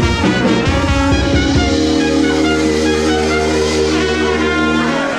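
Live brass band playing, with drum hits through the first two seconds; about two seconds in the band settles onto one long held chord over a low bass note.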